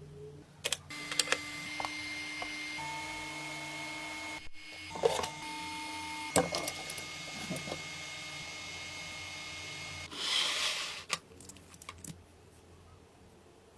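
A small electric motor whines steadily for several seconds, stepping slightly in pitch and briefly cutting out, with scattered clicks and knocks. It is followed by a short hiss and a few more clicks.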